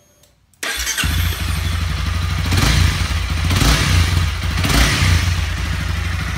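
Honda CB300F's single-cylinder engine starting: a brief crank that catches about a second in, then blipped three times and settling into a steady idle.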